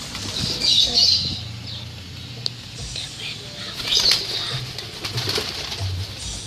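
Domestic pigeons' wings flapping, with two loud bursts of wingbeats, about a second in and about four seconds in.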